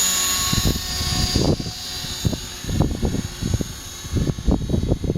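Align T-Rex 450 Pro electric RC helicopter running, its Scorpion HKII-2221-8 brushless motor and rotors making a steady high whine that fades about a second and a half in. Gusts of wind buffet the microphone throughout.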